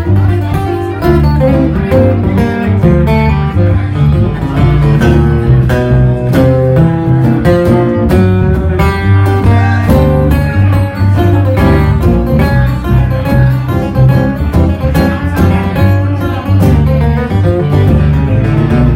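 Live bluegrass band playing an instrumental passage of quickly picked string instruments over a steady bass line, with no singing.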